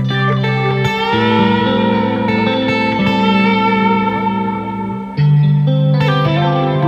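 Squier Classic Vibe '60s Stratocaster electric guitar played through effects over a looped layer. Sustained chords change about a second in and again just after five seconds, with picked notes and slides above them.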